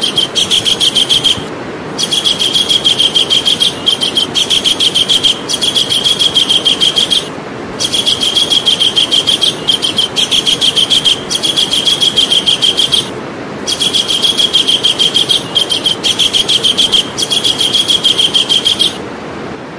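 Javan kingfisher (cekakak jawa) calling in loud, rapid rattling trills. The phrases last about five seconds each and are separated by brief pauses, three times over.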